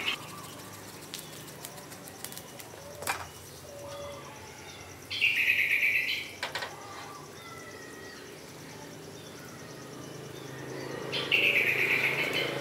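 A bird calling loudly twice, each high call lasting about a second, about five seconds in and again near the end, with a few faint knocks between.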